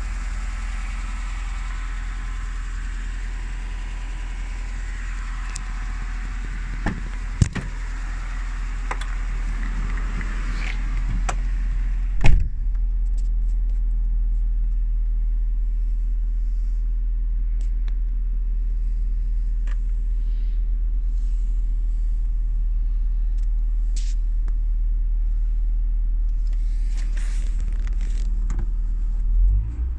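Rover 618i's 16-valve four-cylinder engine idling steadily with a low hum. About twelve seconds in a car door shuts with a loud thud, and from then on the idle is heard from inside the cabin.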